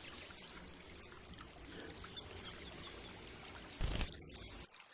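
Common kingfisher calling: a quick series of short, shrill, high-pitched whistled notes, about ten in the first two and a half seconds. A brief burst of noise follows a little before four seconds in.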